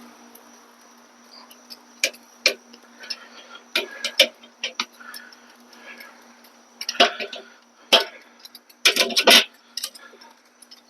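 Scattered sharp clicks and knocks of something being handled, with a quick cluster of them about nine seconds in, over a faint steady hum.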